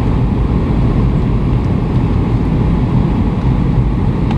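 Boeing 757 cabin noise: a loud, steady low rumble of engines and airflow, with a faint steady whine on top.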